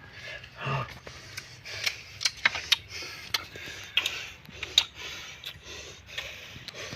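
Irregular sharp clicks and snaps, a dozen or more spread unevenly over several seconds.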